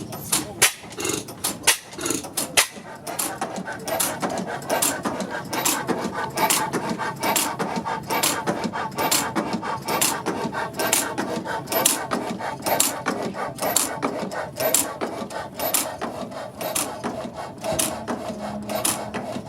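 Stationary gas engine running slowly, with a regular clacking of about two beats a second over a steady mechanical rattle.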